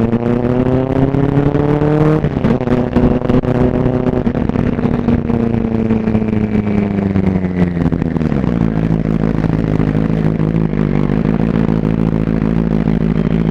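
Superbike engine pulling up through the revs, with a gear change about two seconds in, then easing off and dropping in pitch about six to eight seconds in before holding a steady lower note.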